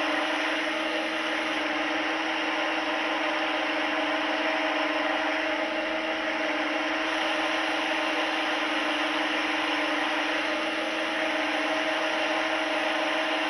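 A steady mechanical whirring hum with a constant low tone over an even hiss, unchanging throughout.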